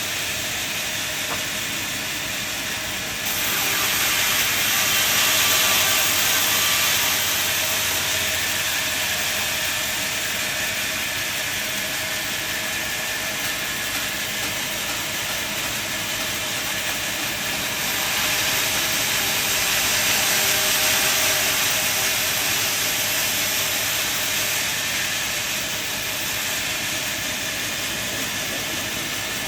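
Sawmill saw running and cutting through wood, a steady hissing machine noise that turns louder for a few seconds twice, changing abruptly as it goes.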